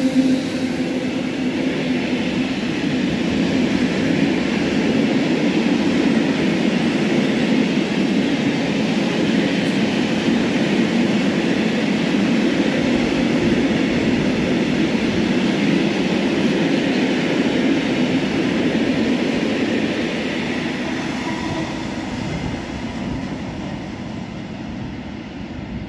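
Freight train's wagons rolling past close by: a steady rumble and hiss of steel wheels on the rails. It fades over the last few seconds.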